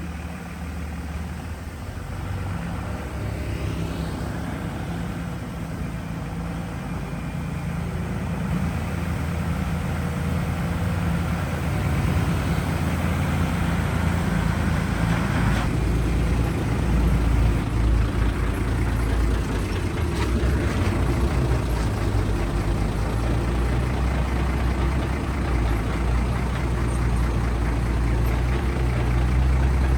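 Heavy construction machine's diesel engine running with a steady low drone, growing louder over the first ten seconds or so.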